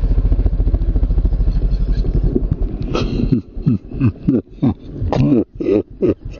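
Motorcycle engine running steadily on a dirt trail. About three seconds in it drops away, and a quick, regular run of short sounds falling in pitch follows.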